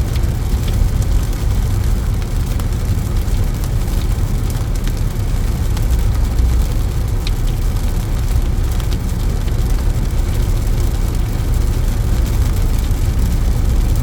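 Steady low rumble of road and engine noise inside a moving vehicle's cabin at highway speed.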